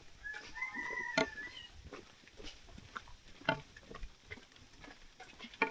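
Scattered clicks and taps, typical of footsteps and a walking stick on a trail, with a short high-pitched call about half a second in.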